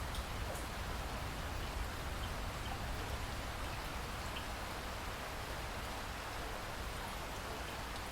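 Steady heavy rain, with a low thunder rumble underneath that eases off early on.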